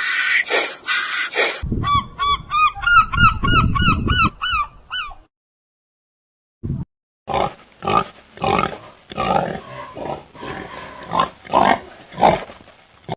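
Animal calls from several short clips: a fast run of about a dozen short calls that rise and fall in pitch, then, after a brief pause, a long series of rougher pulsed calls.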